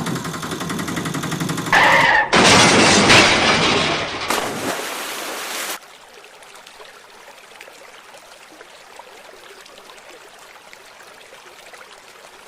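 A loud crash with breaking and shattering that lasts about three seconds, then cuts off sharply to a faint steady hiss.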